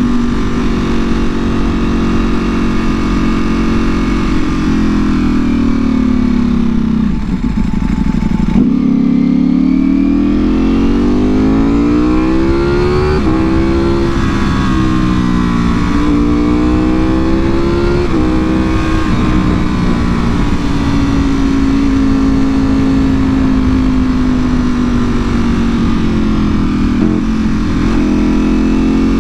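Ducati Panigale V4R's V4 engine through a full Akrapovic exhaust, heard while riding. About seven seconds in the revs drop away, then the engine pulls hard through the gears, its pitch rising and stepping down at each of three quick upshifts. It then holds a steady cruise with small blips near the end.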